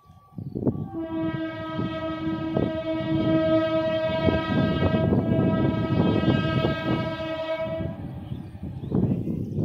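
Electric multiple unit (EMU) local train sounding one long horn blast, from about a second in until about 8 seconds in, over the rising rumble and clatter of the approaching train on the rails, which grows louder near the end.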